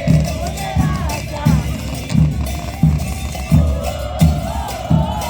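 Carnival parade music led by drums: a deep bass drum struck steadily, about three beats every two seconds, under a wavering melody line.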